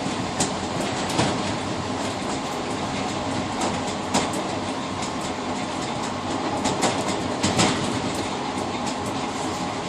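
Passenger train running at speed, heard from inside the rear car's cab vestibule: a steady rumble of wheels on rail with irregular sharp clacks over rail joints, the loudest near the end.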